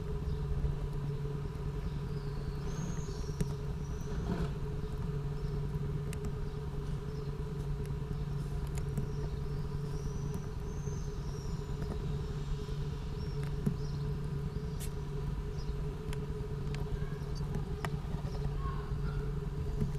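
A steady low mechanical hum, with a few faint high chirps now and then.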